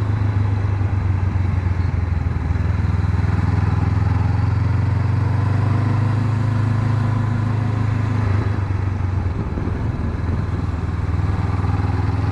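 Honda CB500X's parallel-twin engine running steadily while the motorcycle is ridden, its low note holding fairly constant and easing slightly about nine seconds in.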